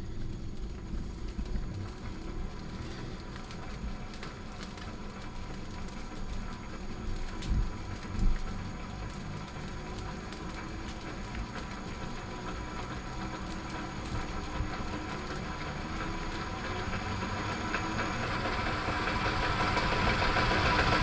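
Myford Super 7B lathe running under inverter drive, its gear train giving a steady mechanical clatter that grows louder over the last few seconds, with a faint high whine that shifts pitch near the end. The noise comes from all the gears running.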